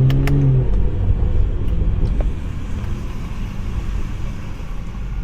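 Tuned BMW 540i's B58 turbocharged inline-six engine note, rising slightly and fading away within the first second, leaving a low rumble of road and tyre noise as the car rolls on, with a few sharp clicks.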